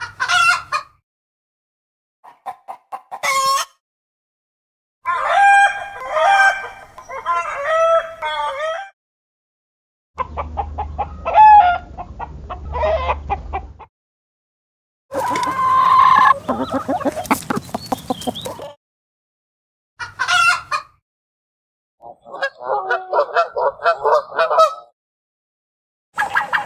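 Domestic hens clucking and cackling in a run of short separate recordings, each a few seconds long with silent gaps between them. Near the end a different clip starts, with domestic geese honking.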